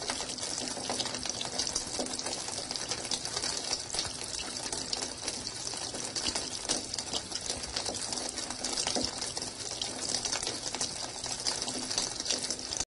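Muddy water gushing steadily out of an open, hose-clamped pipe in a vehicle's engine bay, a sign that water has got into the engine's plumbing. The flow is steady with fine crackling and cuts off suddenly at the end.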